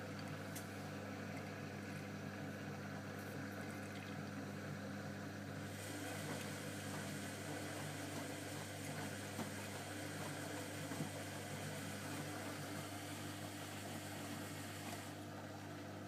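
Blomberg washing machine with jet system running with a steady low hum. About six seconds in, a hiss of water being pumped and sprayed sets in and stops shortly before the end.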